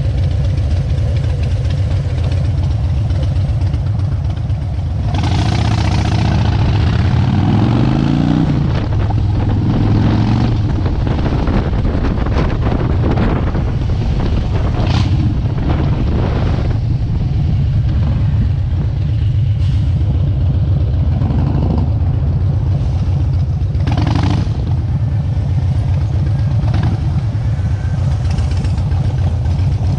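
Harley-Davidson V-twin motorcycle engine running on the road with a steady low rumble; about eight seconds in its pitch rises and falls as it revs through a gear. A few short bursts of noise break over it.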